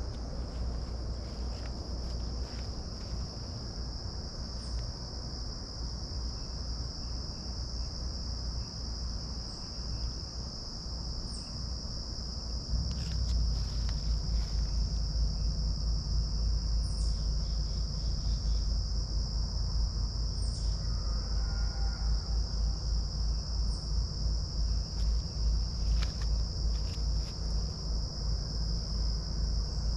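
A steady high-pitched insect trill, typical of crickets, with a few brief high chirps over it. A low rumble joins about halfway through and keeps pulsing.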